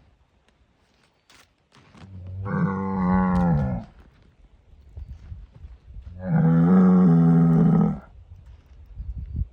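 Angus bull bellowing twice. The first call starts about two seconds in and drops in pitch before it cuts off; the second, louder and steadier, starts about six seconds in.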